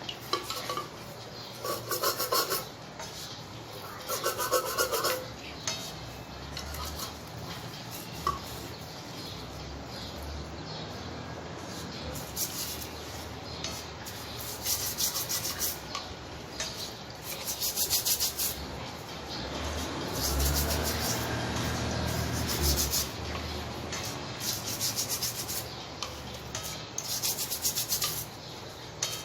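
Abrasive hand rubbing on the sunken compass, sanding or scrubbing in repeated bursts of quick short strokes with pauses between them.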